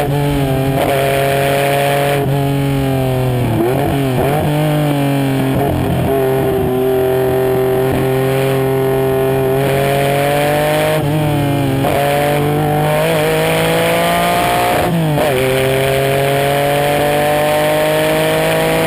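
Race car engine under hard throttle, its pitch climbing steadily through each gear. The pitch breaks several times as the gears are changed and then climbs again.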